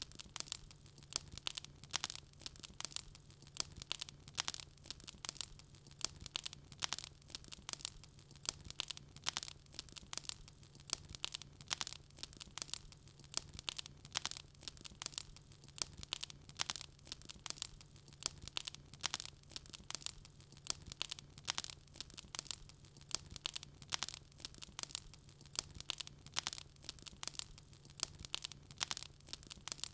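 Wood fire crackling: dense, irregular snaps and pops several times a second, over a faint steady low hum.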